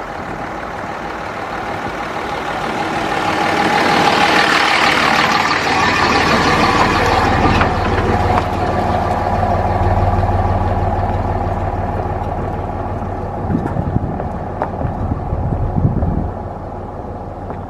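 Truck engine and tyre noise, swelling louder from about three seconds in and easing off again after about ten seconds, with a low rumble and a few light knocks near the end.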